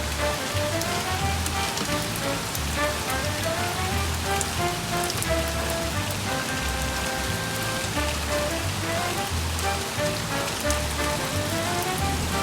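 Steady rain falling, mixed with background music: a slow melody over repeating low bass notes.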